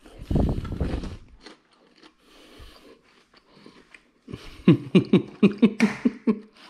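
A person chewing a mouthful of toasted grilled cheese sandwich close to the microphone. A loud low chomp comes in the first second. Later comes a quick, even run of chews, about five a second.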